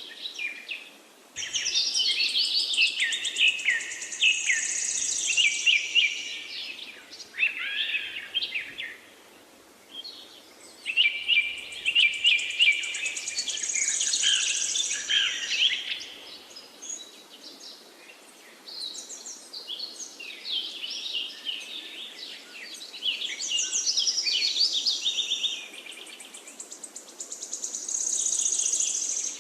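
Birds singing in a chorus of high, rapid chirping and trilled phrases. The song comes in bursts of a few seconds with short lulls between them, over a faint steady background hiss.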